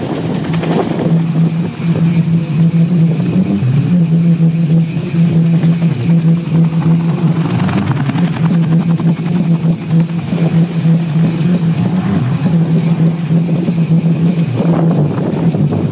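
AH-1 Cobra attack helicopters flying, with rotor and turbine noise making a steady low drone whose loudness rises and falls.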